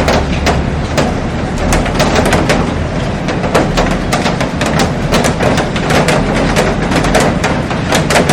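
Heavy rain falling on a glass roof and garden: a dense, steady wash of rain with many sharp, irregular taps of drops striking the glass.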